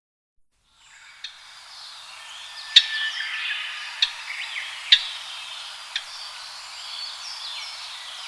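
Japanese grosbeaks calling: many overlapping chirps and short whistles, broken by about five sharp, loud single notes. The sound starts suddenly about a second in, after silence.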